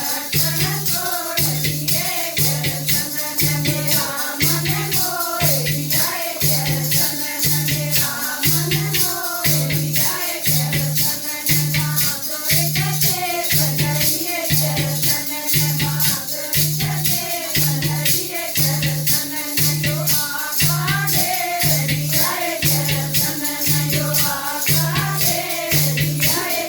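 Haryanvi devotional bhajan: a wavering sung or played melody over a steady low beat, a little under one beat a second, with a shaker rattling throughout.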